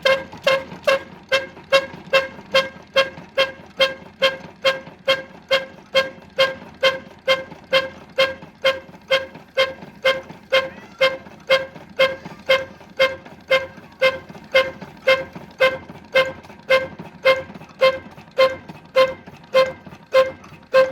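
Old stationary engine of a village flour mill running at a slow, even beat, about two sharp exhaust beats a second, each with a short metallic ring.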